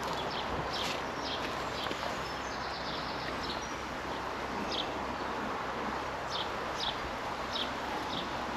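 Honeybees buzzing steadily around an opened hive, with short high bird chirps coming every second or so over the hum.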